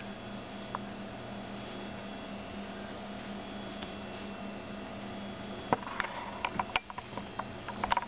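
Steady electrical hum, with a cluster of light taps and clicks in the last couple of seconds from a cat playing on a floor.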